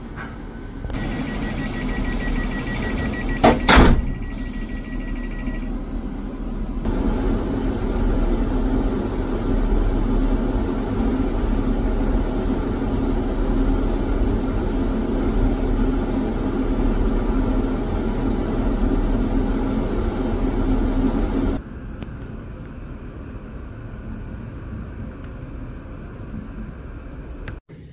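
Electric multiple-unit train: a steady high door-warning tone with a loud clunk about 4 s in as the doors close, then the steady hum and running noise of the carriage interior while under way. This cuts off suddenly about 22 s in to a quieter steady rumble of a train passing through the station.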